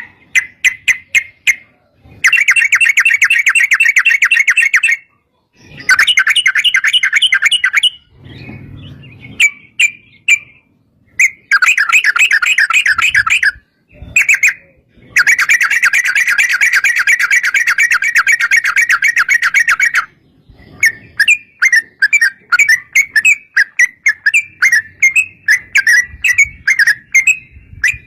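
Yellow-vented bulbul (trucukan) singing loudly in long, rapid rattling runs of notes lasting a few seconds each, broken by short pauses and strings of separate chirps.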